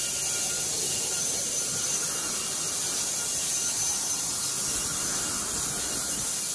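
Steady hiss, even throughout, without clear knocks, tones or rhythm.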